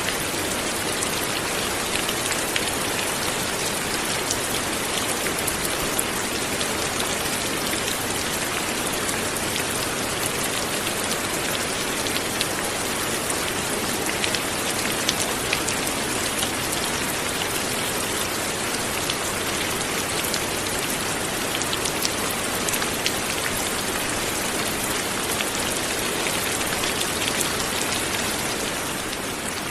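Light rain falling steadily, a dense patter of individual drops striking surfaces.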